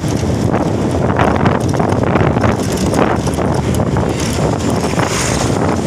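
Roadside traffic noise from heavy vehicles passing, with wind buffeting the microphone in irregular knocks and gusts.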